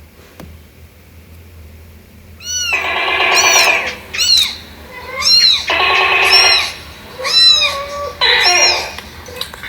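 Cat meowing: after a quiet start, three drawn-out meows of about a second each, with repeated short high chirps between them.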